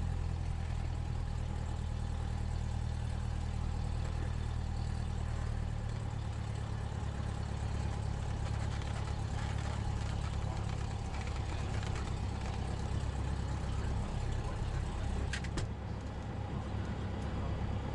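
Cessna 172S's four-cylinder Lycoming piston engine running steadily, its note shifting slightly about six seconds in. A brief click about fifteen seconds in.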